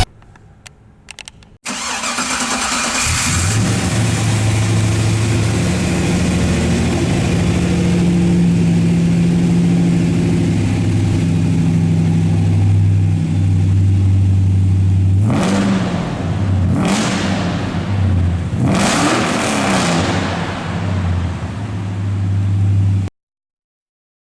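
A 6.0-litre LS V8 in a 1962 Chevrolet Impala SS, running at a steady idle. It comes in suddenly about two seconds in and is revved three times near the end, the last rev held longest, before cutting off abruptly.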